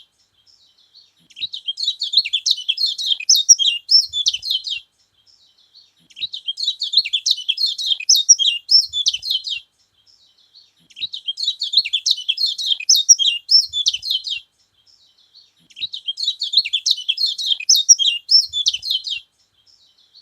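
A kecial kuning, the yellow white-eye of Lombok, sings fast, high-pitched chattering song phrases. Each phrase lasts about three and a half seconds, and there are four of them with short pauses between. Keepers use this song to rouse other kecial.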